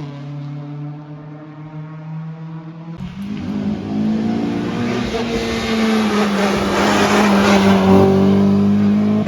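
Rally car engines on a stage: first a steady engine note, then after about three seconds a cut to a louder rally car coming close, its engine note slowly climbing under a growing rush of noise that is loudest near the end.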